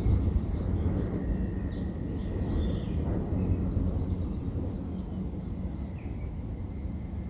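Wind buffeting the microphone outdoors, a low rumble that eases a little over the seconds, with a few faint short bird chirps above it.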